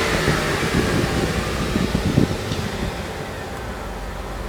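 Steady rush of air from the 2007 GMC Yukon's cabin air-conditioning blower, with a few low bumps and rumbles about halfway through.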